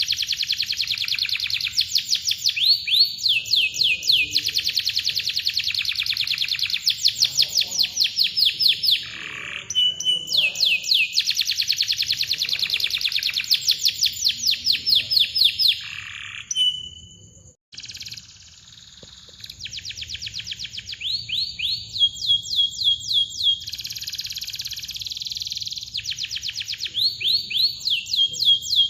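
Domestic canary singing: long, tight rolls of rapid rising chirps, broken by short steady whistled notes between phrases, with a brief gap about two-thirds of the way through.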